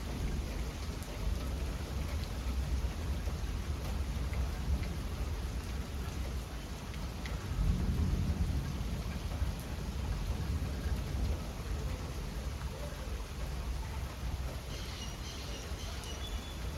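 Steady rain with low thunder rumbling, the rumble swelling to its loudest about halfway through.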